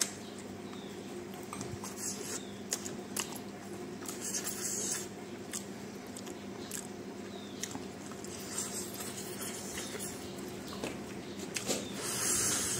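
A person chewing food with the mouth open close to the microphone: wet smacking and clicking mouth sounds, over a steady low hum.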